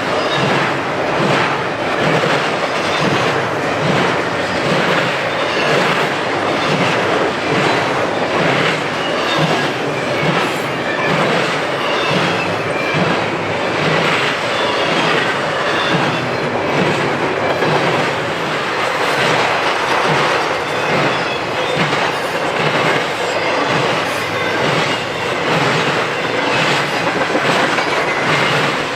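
BNSF freight train rolling past: steel wheels clicking over the rail joints in a steady, repeating clatter, with some wheel squeal.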